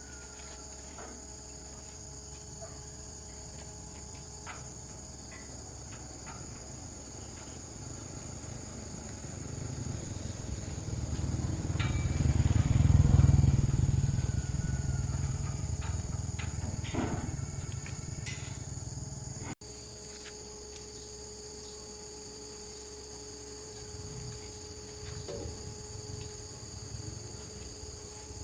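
Insects chirring steadily at a high pitch. Around the middle, a low rumble swells up and fades away again.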